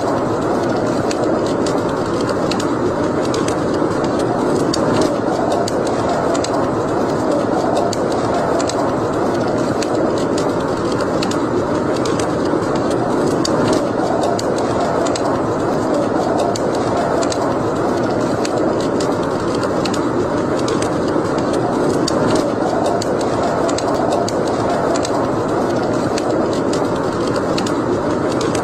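Wood fire in a fireplace crackling, with many small irregular pops over a steady, even rushing noise.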